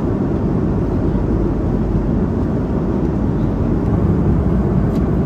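Steady low rumble and rush of an airliner cabin in flight, engine and air noise at an even level with no changes.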